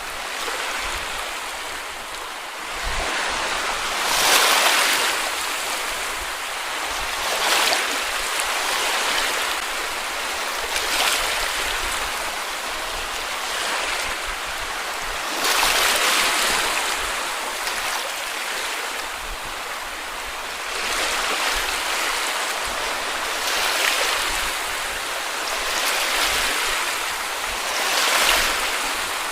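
Sea waves washing onto a beach: a steady hiss of surf that swells as a new wave breaks every few seconds.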